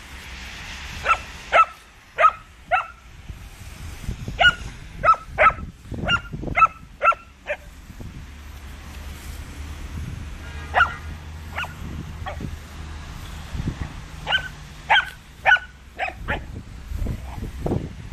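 Irish Setter puppy barking: short, high yappy barks in quick runs of two to four, with a pause of a few seconds near the middle.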